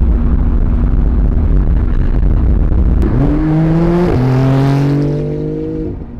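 Supercar engine heard from outside as the car accelerates hard away: after a low rumble, the engine note climbs steeply about three seconds in, drops at a gear change a second later, climbs again, then fades as the car pulls away.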